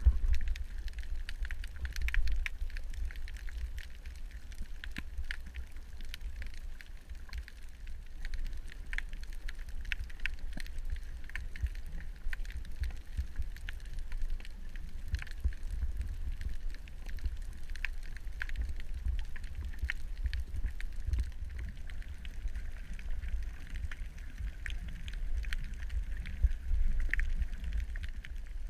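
Underwater ambience: a steady low rumble with many scattered crackling clicks throughout.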